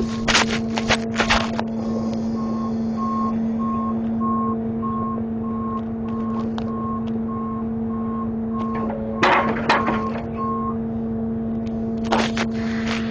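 A grapple truck's reversing alarm beeping at about two beeps a second over its steadily running engine, stopping after about ten seconds. Sharp metallic clanks come near the start, again around nine to ten seconds in, and near the end.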